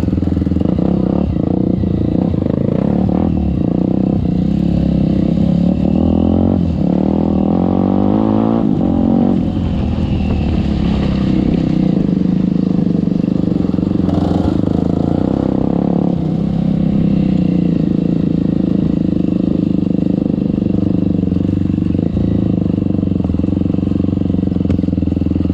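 Off-road trail motorcycle engine running under load as it is ridden, revving up and falling back, with a marked rise and fall in pitch about a quarter of the way in.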